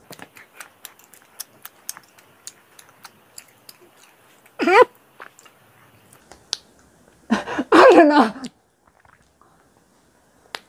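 Wet mouth clicks and smacking of chewing chocolate, small sharp ticks several times a second through the first few seconds. A short pitched vocal sound comes about halfway through, then a longer, louder voiced outburst without words a little later, the loudest sound here.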